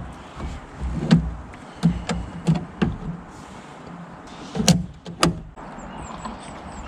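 A series of sharp knocks and clunks, about six spread over a few seconds, as things are handled around the boat, over a low rumble in the background.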